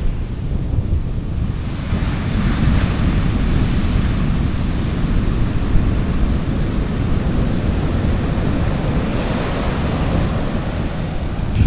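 Gentle sea waves washing onto a beach, a steady surf rumble with a brighter wash about two seconds in and another building near the end, mixed with low wind buffeting on the microphone.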